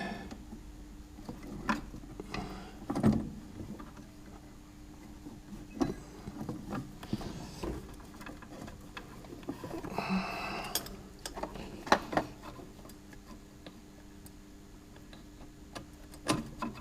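Irregular light clicks and knocks of small metal parts and hand tools being handled while throttle linkage is fitted to a Jaguar 3.8 engine's carburettors, with a couple of brief rustles and a faint steady hum underneath.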